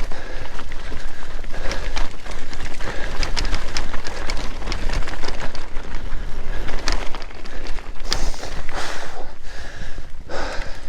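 Mountain bike being ridden over a forest trail: tyre noise on dirt with a steady low rumble and frequent short clicks and knocks from the bike rattling over the ground.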